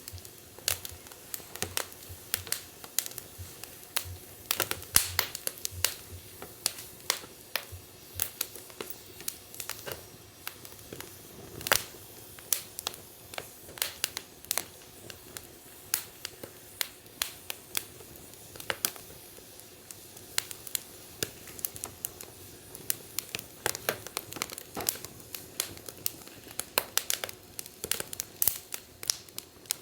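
Wood fire burning in a fire-pit stand, crackling with irregular sharp pops several times a second.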